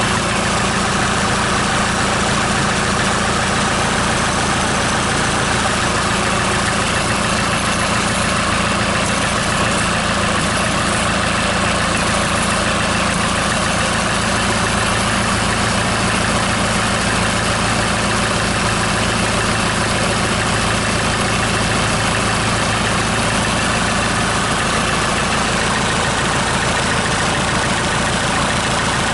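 SsangYong 2.0 XDi four-cylinder turbodiesel (engine 664 951) idling steadily, run outside the vehicle on a test start.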